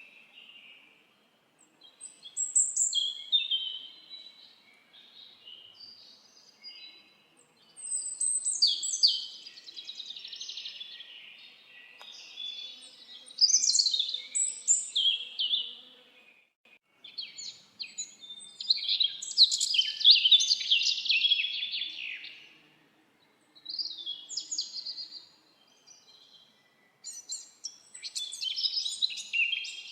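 Songbirds singing in the forest: high, twittering song phrases of a few seconds each, coming one after another with short pauses between.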